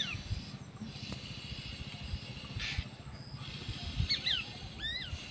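Birds chirping with short whistled, two-note calls at the start and again about four seconds in, over faint low rumbling and a few soft thumps.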